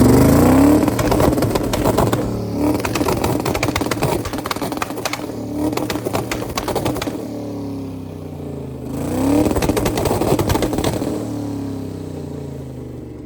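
Twin-turbo limo engine revved against a two-step launch rev limiter, with a rapid crackle of pops from the exhaust. The revs rise once at the start and again about nine seconds in, then die down near the end.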